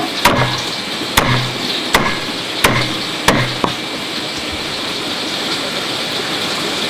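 Five sharp knocks in quick succession, about one every three-quarters of a second and coming slightly faster, each with a short dull thud. A steady hiss follows.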